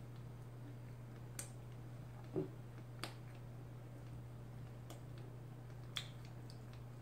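Eating sounds from close by as a person chews a soft sausage bread roll: a few sharp mouth clicks and lip smacks, spaced a second or more apart, the loudest about two and a half seconds in. A steady low hum runs underneath.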